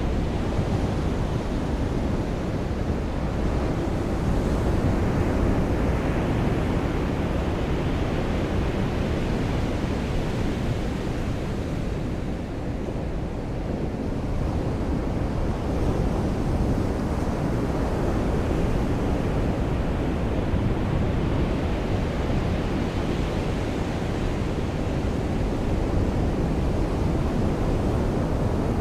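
Ocean surf washing onto a beach in slow swells, with a steady rush of wind. The waves build and ebb over several seconds, easing to a lull about halfway through.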